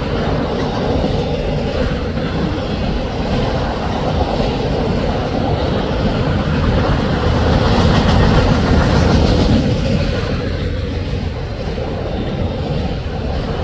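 Canadian National autorack and double-stack freight train rolling past: a steady rumble of steel wheels on the rails, a little louder around the middle.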